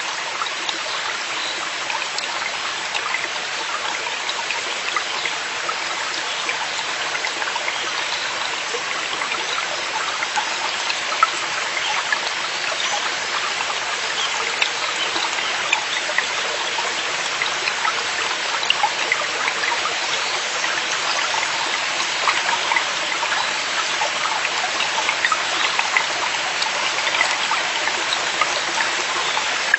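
Mountain stream in a forest valley flowing over rocks: a steady rush of water, dense with small splashes and trickles.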